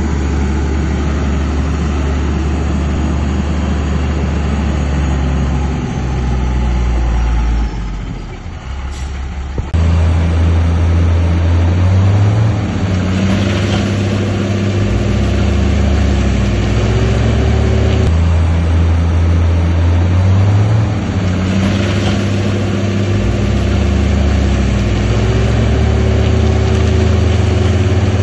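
Heavy diesel earthmoving machinery running hard. The engine note dips briefly about eight seconds in, comes back louder, and revs up twice later on.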